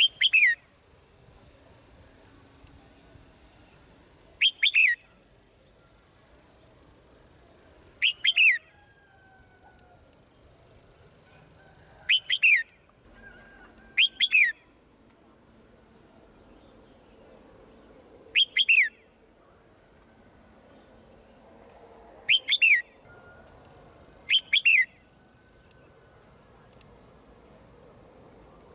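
Swallow calls: short bursts of two or three quick falling chirps, repeated eight times at intervals of about two to four seconds, over a steady high hiss.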